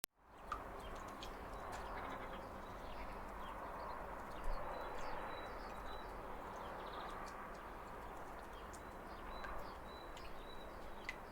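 Waterfall running with a steady rushing noise, with birds chirping over it in short high calls. The sound drops briefly to silence right at the start, and a few sharp clicks stand out, the loudest about four and a half seconds in.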